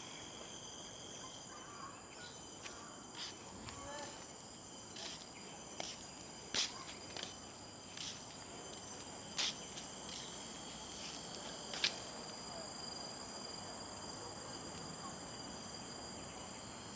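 Steady chorus of tropical forest insects: several continuous high buzzing tones layered together. Scattered short sharp clicks or chirps cut across it, the loudest about six and a half and twelve seconds in.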